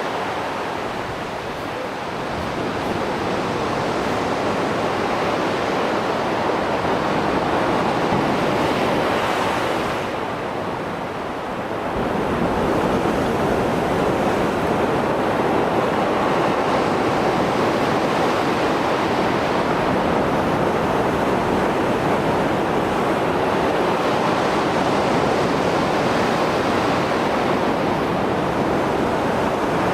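Mediterranean Sea surf after a storm: a continuous rush of breaking waves and surging water, easing briefly twice and building again, about ten seconds apart.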